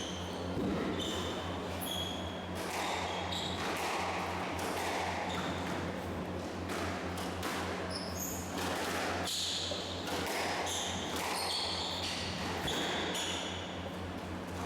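Squash rally: the ball smacking off rackets and the court walls at irregular, close intervals, with shoes squeaking on the court floor. A steady low hum runs underneath.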